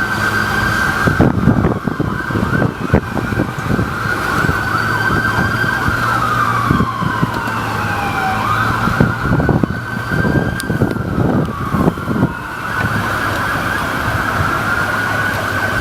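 A siren wailing, its pitch holding high and then sliding down and back up several times, over a steady low engine hum and wind buffeting.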